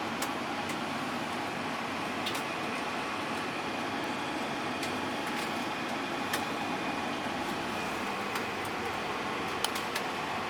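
Steady hum inside a bus from its engine and ventilation, with a few faint, scattered clicks.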